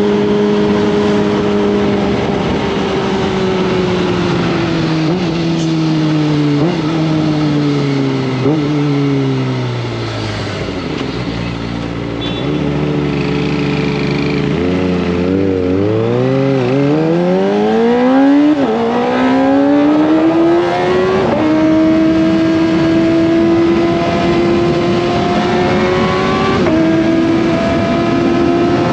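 Kawasaki ZX-25R's 250 cc inline-four engine while riding. Its note falls over the first ten seconds as the bike slows, with small jumps at the downshifts, then runs low for a few seconds with quick throttle blips. It then climbs hard through the gears and settles into a steady high-pitched cruise.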